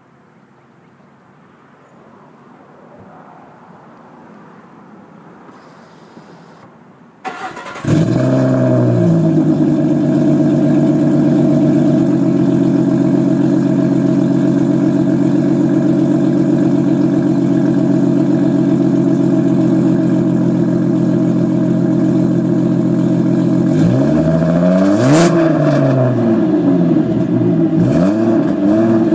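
The 3.7-litre V6 of a 2011 Ford Mustang starts up about seven seconds in, after a quiet stretch. It settles into a steady, deep idle, then is revved several times near the end. It runs through stock manifolds, an off-road X-pipe with no catalytic converters or resonators, and 2012 Mustang GT mufflers.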